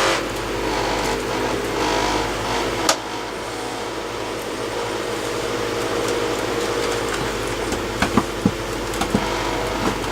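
A steady mechanical hum with a few sharp knocks, the loudest about three seconds in and a quick cluster near the end.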